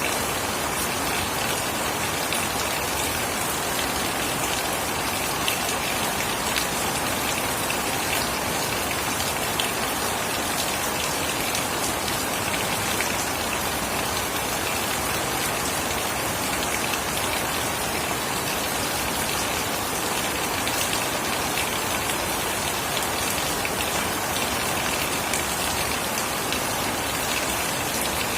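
Steady rain falling and pattering on surfaces, with many small drop ticks in an even hiss.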